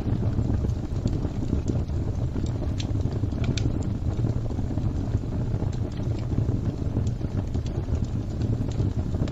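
Fire crackling: a steady low rumble of flames with scattered sharp pops and crackles.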